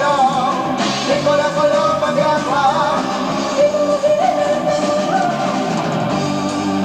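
Progressive rock band playing live, on an amateur cassette recording: a wavering lead melody line with vibrato carries over the full band at a steady level.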